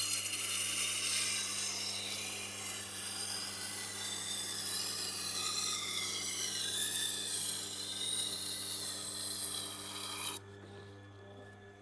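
A large Wüsthof Classic knife blade being ground against the turning wet stone of a Tormek sharpener: a steady scraping hiss that stops suddenly about ten seconds in as the blade comes off the stone. The machine's motor hums steadily underneath.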